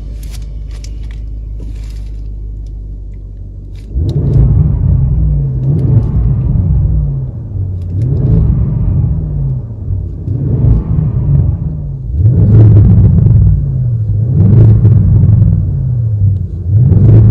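Audi RS6 C8's twin-turbo V8 through a Tubi Style exhaust, idling with a deep rumble, then suddenly louder about four seconds in and revved over and over, about one rev every two seconds, each rising and falling in pitch.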